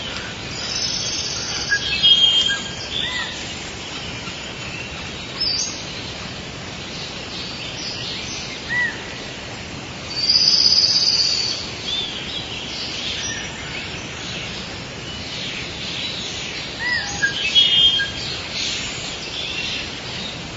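Several birds chirping and singing in short, high calls over a steady hiss, with louder bursts of chirping about two seconds in, about ten seconds in and near the end.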